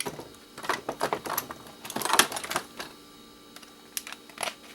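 A small stainless steel piece being worked free from its base by hand: a quick run of irregular clicks and rattles, loudest about two seconds in, then a few scattered clicks near the end.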